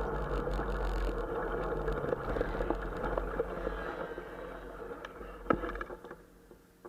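Small motorcycle engine running with a steady drone, then dying away over the last few seconds. A single sharp click comes near the end.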